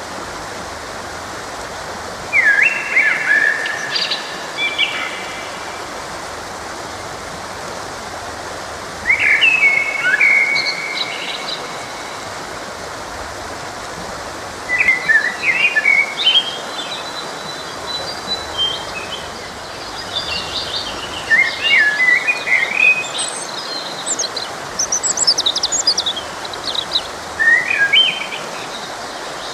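Songbirds singing in short phrases, spaced several seconds apart, over the steady rush of a forest stream.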